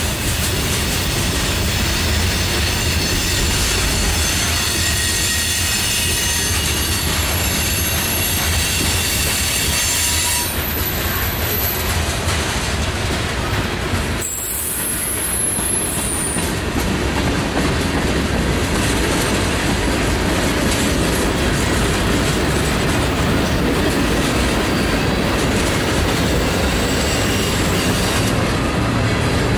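Freight cars of a mixed freight train rolling past close by: a steady rumble and clatter of steel wheels on rail. A high-pitched wheel squeal rings over it for the first ten seconds or so, then fades.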